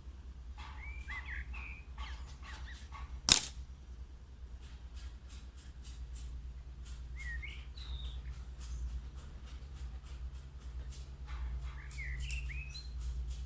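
A single sharp air rifle shot about three seconds in, with small birds chirping and twittering throughout over a low steady rumble.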